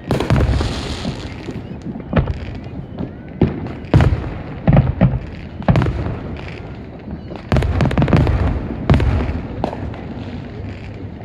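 Fireworks exploding: a quick run of about ten loud booms, each with a ringing tail and rumble.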